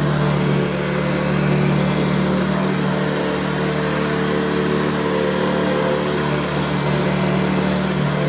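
Upright vacuum cleaner running steadily, its motor holding a constant pitch.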